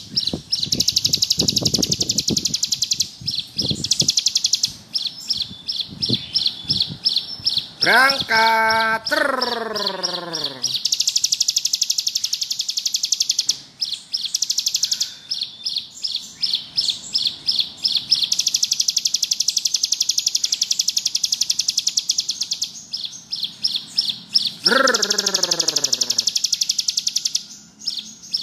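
Ciblek gunung (a prinia) singing its long, fast, buzzing trill ('ngebrem'): very rapid high notes run on in long stretches, broken by brief pauses.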